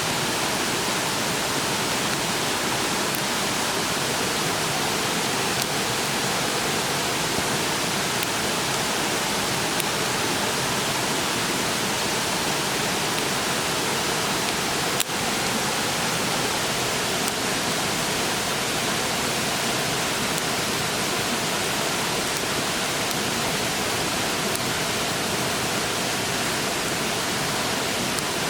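Steady rush of a clear, fast-flowing stream, with one sharp crack from the wood fire about halfway through.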